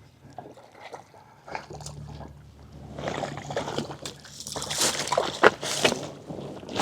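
Hooked trout splashing and thrashing at the water's surface as it is reeled in to the bank, quiet at first and then a burst of loud, choppy splashes from about halfway through.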